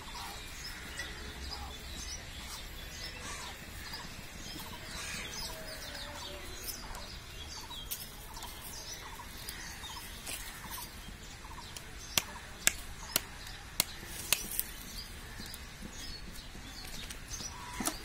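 Small birds chirping in the background. About two-thirds of the way through come a quick run of five or six sharp clicks.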